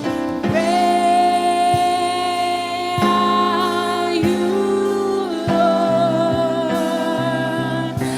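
Gospel worship music: long held sung notes over a band, with occasional drum hits.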